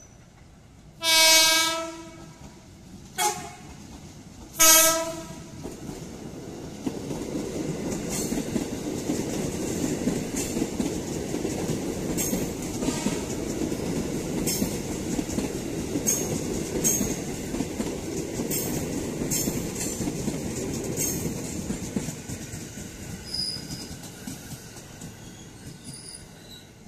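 Electric train horn sounding three times: a long blast about a second in, a short toot, then another long blast near five seconds. Then two electric commuter trains, a JR 205 series set and an airport train, run past with a steady rumble and regular clicks of wheels over rail joints, fading away near the end.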